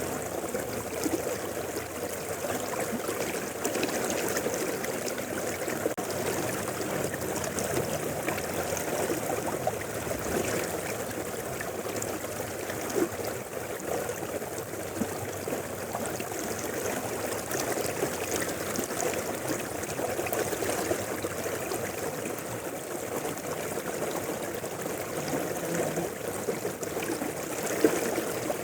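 Mountain river running over stones: a steady rushing and gurgling of flowing water.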